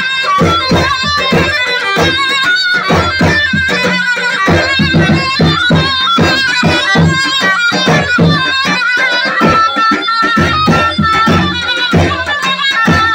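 Lively traditional folk dance music: a fast, steady drum beat under a high, ornamented melody line.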